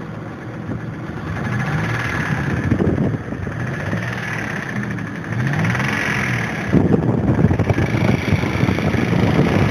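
1995 Mitsubishi Montero SR's 3.5-litre V6 running, its engine speed rising and falling twice, then louder and rougher about seven seconds in. The owner suspects a lifter noise, though to him it is not a tapping.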